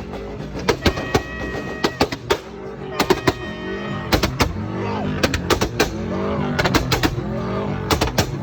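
Subaru exhaust popping and crackling in irregular clusters of sharp bangs, with music playing underneath.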